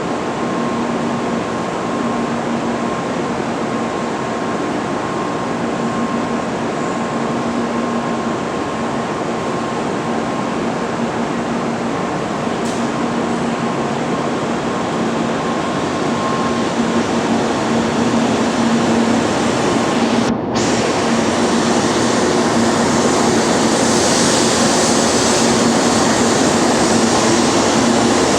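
Electric train rumbling at a station platform, a steady noise with a constant hum, growing louder toward the end. There is a brief break in the sound about twenty seconds in.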